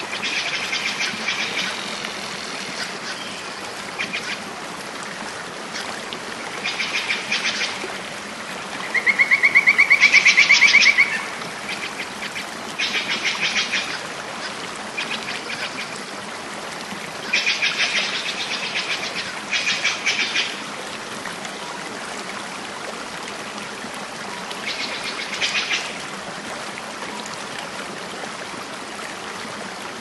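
Birds calling: repeated short bursts of rapid, pulsed calls over a steady hiss, the loudest about ten seconds in, rising slightly in pitch.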